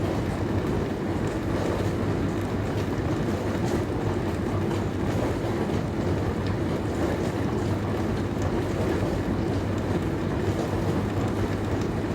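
Dishwasher running: a steady hum under a continuous rush of water, with faint light ticks scattered through it.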